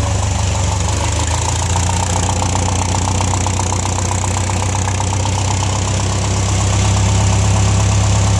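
TCM propane forklift engine idling steadily, with a fast even puffing from a small exhaust leak. It gets a little louder near the end.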